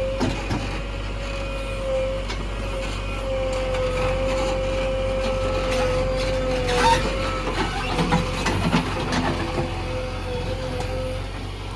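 JCB 3DX backhoe loader's diesel engine running steadily under a high, even whine, with scattered knocks from the machine at work, most of them about two-thirds of the way in.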